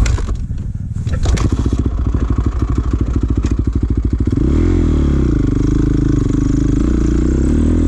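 Dirt bike engine chugging at low revs with an even pulse, then revving up and back down about four and a half seconds in and settling into a steadier run.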